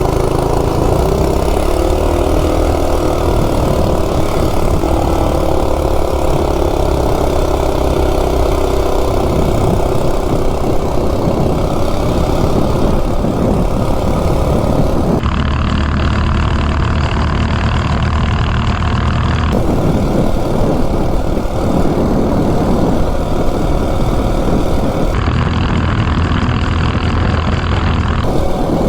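Coleman RSV minibike's 196cc single-cylinder engine, ungoverned and modified, running hard at full throttle during a top-speed run up a hill; it is loud and steady.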